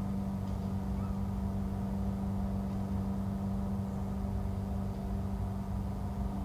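Steady low hum at a constant pitch over an uneven low rumble, unchanging throughout.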